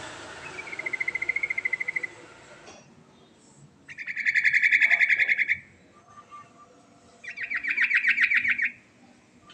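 Yellow-vented bulbul (trucukan) singing its rolling song: three quick, bubbling phrases of about a second and a half each, with short pauses between them. A hiss lies under the first phrase.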